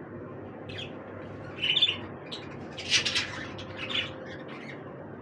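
Pet budgerigars giving short, scratchy squawks and chirps in irregular bursts. The loudest come about two seconds and three seconds in, over a steady low background hiss.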